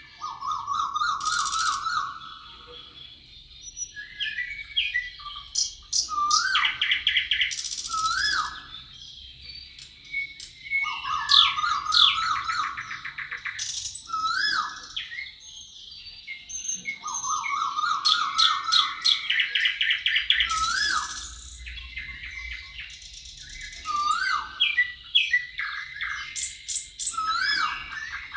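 Several wild birds singing together. There are repeated buzzy trilled phrases about a second long, hooked whistled notes, and quick high-pitched trills, over a thin steady high tone.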